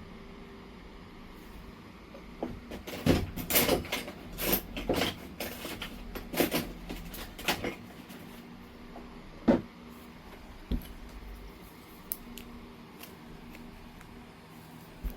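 Knapping a piece of Oregon jasper: a flurry of sharp stone clicks and taps over several seconds as it is worked, then a few single clicks spaced apart.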